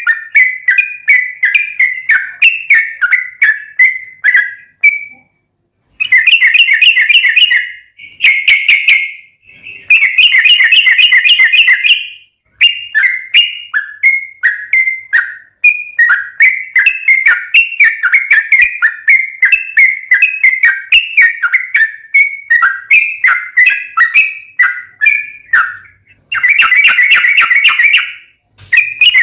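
Yellow-vented bulbul (trucukan) singing loudly: rapid strings of short notes in falling phrases. Denser, faster chattering runs come in a few seconds in, again about ten seconds in, and near the end.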